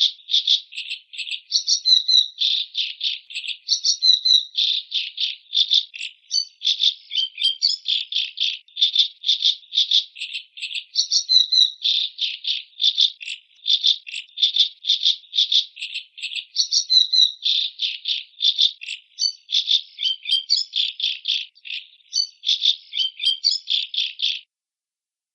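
Macaw calls: a rapid run of short, high, harsh calls, about three to four a second, that breaks off briefly near the end.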